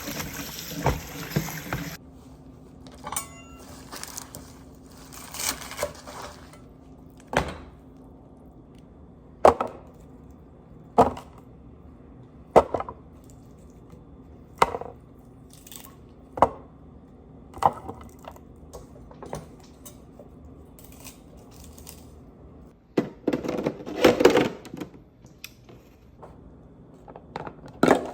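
Running tap water for about the first two seconds, then a string of single sharp knocks on wood, one every second or two, with a busier clatter near the end.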